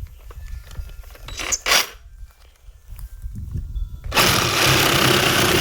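Light clicks and handling noise, then about four seconds in a reciprocating saw fitted with a bi-metal blade starts up and runs loudly, cutting, for about two seconds.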